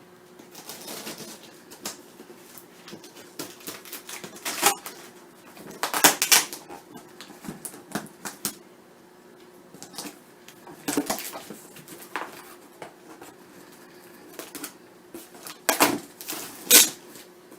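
A cardboard shipping box being opened and unpacked by hand: irregular rustles, scrapes and light knocks of cardboard and packaging, with a few louder rustling bursts.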